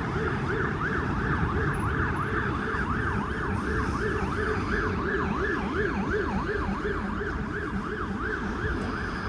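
Emergency vehicle siren wailing in a fast yelp, its pitch sweeping up and down about three times a second without a break.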